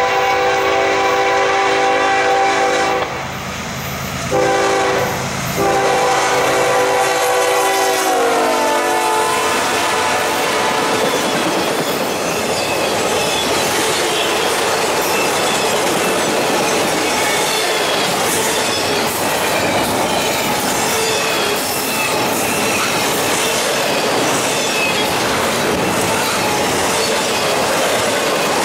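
Norfolk Southern diesel locomotive's multi-chime air horn sounding a long blast, a short blast, then a long blast whose pitch drops as the locomotive passes. The intermodal train's trailer and double-stack cars then roll by close, with wheel rumble, clickety-clack over the rail joints and faint wheel squeal.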